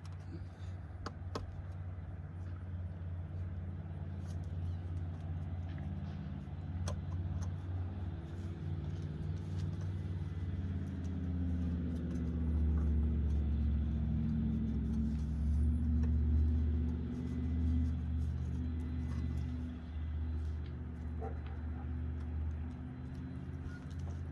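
An engine running steadily at low speed with a low hum, growing louder in the middle and easing off again. Scattered light clicks and knocks of handling sit on top.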